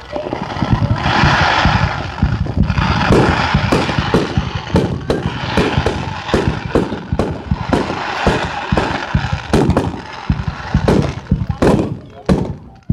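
Fireworks finale: about two seconds of hissing sparks, then a rapid barrage of shell bursts, roughly three or four sharp bangs a second, thinning briefly near the end.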